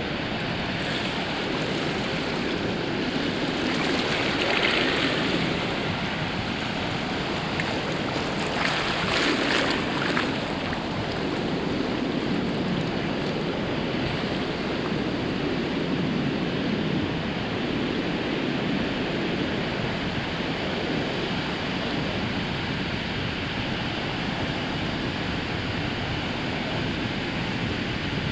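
Ocean surf washing onto a sandy beach in a steady rush, with two waves breaking louder about four and nine seconds in.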